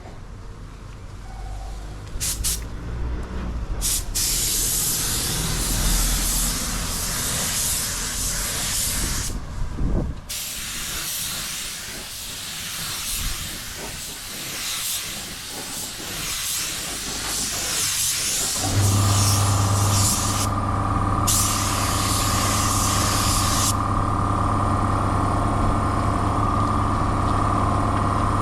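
Fuji spray gun hissing in passes of a few seconds each while spraying clear coat. About 19 seconds in, a motor starts and runs with a steady hum.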